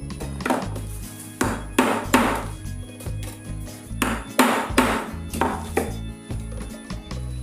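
Irregular sharp knocks of a tool striking metal wire, about nine of them in small clusters, each with a short ring, over background music with a bass line.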